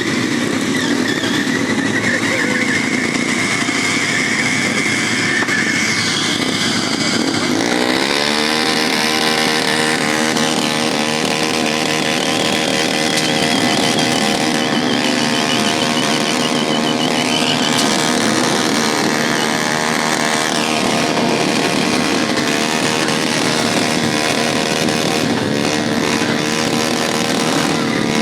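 Motorcycle engines running steadily. About eight seconds in, one engine's pitch rises and then holds.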